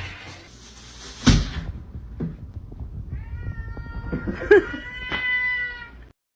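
A cat giving one long, drawn-out meow of nearly three seconds, preceded about a second in by a single sharp knock, the loudest sound here.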